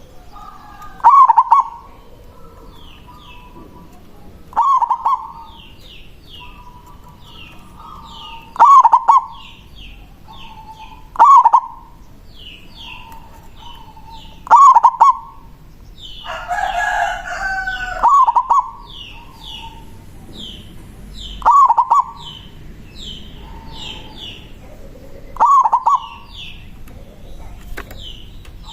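Local zebra dove (perkutut) cooing its manggung song: a loud, short coo repeated about every three to four seconds, eight times. Rapid high chirps of small birds run underneath, and a different, longer call cuts in about sixteen seconds in.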